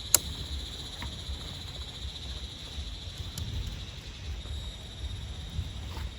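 Steady high-pitched chirring of an insect chorus, typical of crickets, over a low rumble. One sharp click sounds just after the start, and a few faint ticks follow.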